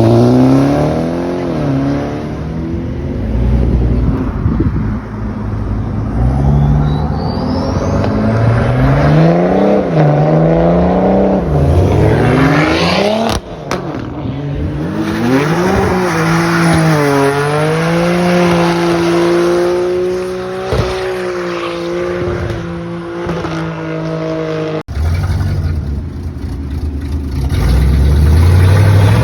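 Performance car engines revving and accelerating away one after another, the pitch climbing and dropping with each gear change, with a stretch of steadier engine drone in the middle. The sound breaks off abruptly twice.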